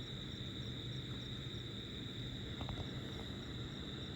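Night insect chorus: crickets keep up a steady high trill, with a fainter chirp repeating about three times a second above it, over a steady low hum. Two faint clicks come about two and a half seconds in.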